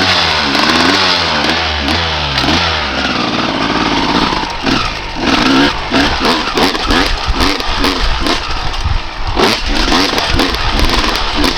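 Honda CR250R's single-cylinder two-stroke engine revving up and down in quick blips for the first few seconds, then running hard with changing revs as the bike is ridden. Many sharp thumps and buffeting noise come in over the engine from about halfway through.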